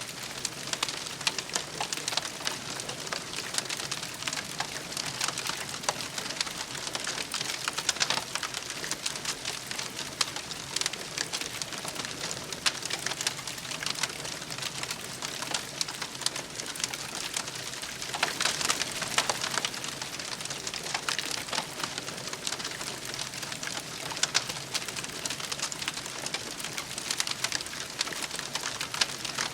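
Wood campfire crackling and popping steadily, many small sharp snaps over a soft hiss, with denser bursts of crackling about eight seconds in and again around nineteen seconds.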